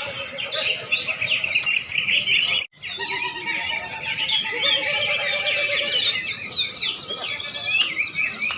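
Many caged contest songbirds singing at once, a dense tangle of overlapping chirps and trills. The sound cuts out completely for a moment about a third of the way through.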